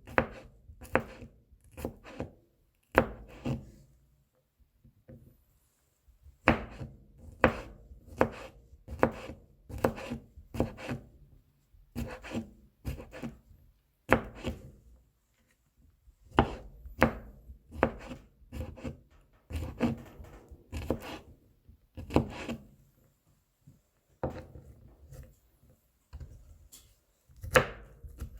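Kitchen knife mincing garlic cloves on a cutting board: quick repeated chopping taps, about two to three a second, in runs broken by short pauses.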